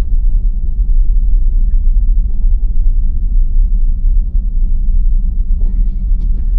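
Steady low rumble of tyre and road noise heard inside a Tesla Model Y's cabin as it drives on a snow-covered, unplowed road.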